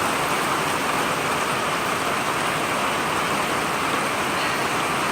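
Heavy rain falling in a steady downpour, an even hiss that does not let up.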